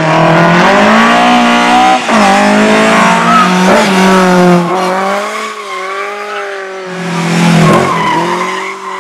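Rally car engine revving hard through the gears, its pitch climbing and dropping back at gear changes about two and four seconds in. It eases to a lower, steadier note after about five seconds, then revs up again near the end.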